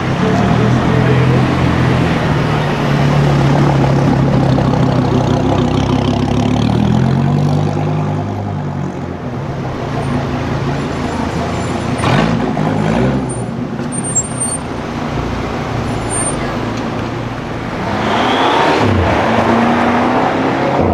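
Car engines in street traffic: an engine running steadily, then shifting in pitch as it pulls away. A few vehicles pass, one close by near the end with its engine pitch bending as it goes past.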